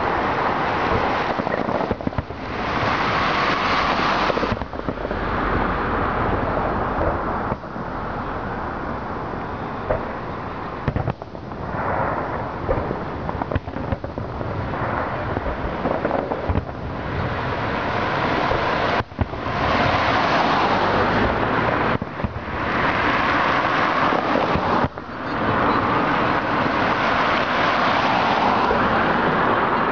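Aerial fireworks shells bursting in quick succession: a dense, nearly unbroken run of booms and crackling, with only a few short lulls.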